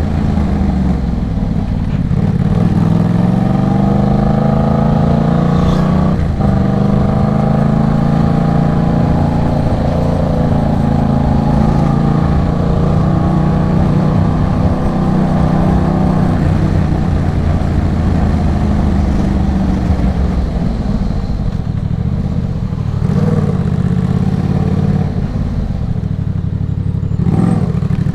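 Exhaust note of a 2023 Yamaha MT-07's 689 cc parallel-twin through an aftermarket Arashi exhaust, heard while riding. The engine pitch climbs slowly, breaks briefly about six seconds in, then climbs and settles again with the changing revs.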